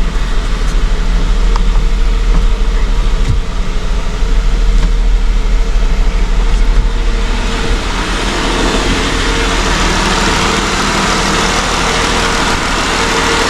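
Jeep Wrangler's freshly swapped 3.6-litre Pentastar V6 idling steadily at operating temperature, running smoothly while its cooling system bleeds air; the owner takes the earlier roughness for a valve lash adjuster that had not fully pumped up. The sound shifts to a more even hiss about eight seconds in.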